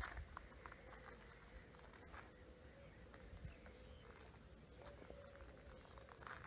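Quiet outdoor ambience, with a small bird repeating a short, high, falling chirp about every two seconds over a faint steady hum and scattered light clicks.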